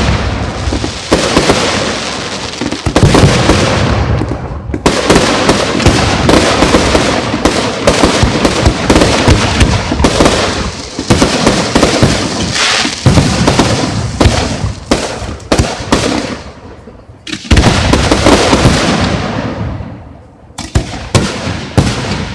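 Fireworks display: a dense, almost unbroken barrage of booms and crackling bursts. It eases briefly near the end, then resumes.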